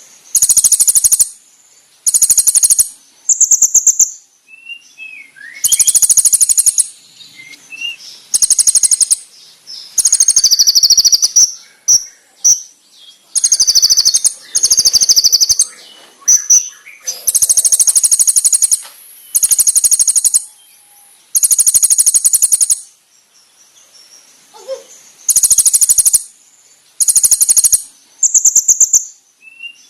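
Kolibri ninja sunbird singing: loud, high, very rapid trilled bursts of about a second each, repeated every couple of seconds, with short sharp whistled notes between them.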